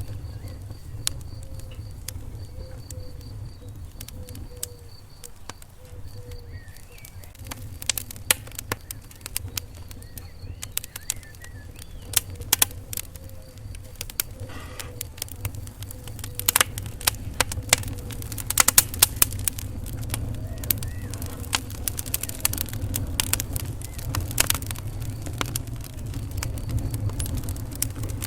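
Wood fire burning in a fireplace: a low steady rumble of flames with irregular sharp crackles and pops, which come thicker and louder about halfway through. Faint thin wavering whistles sit under the crackling in the first half.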